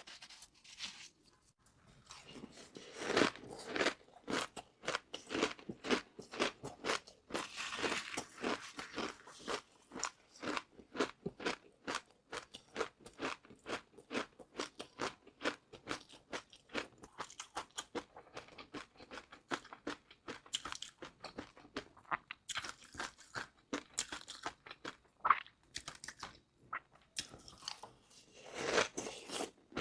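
Close-miked chewing of crunchy food: a quick, steady run of crisp crunches that starts about two seconds in, with a brief pause near the end.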